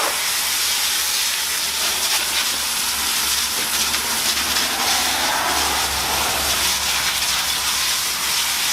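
Pressure washer spray hissing steadily as it rinses iron remover off a car wheel.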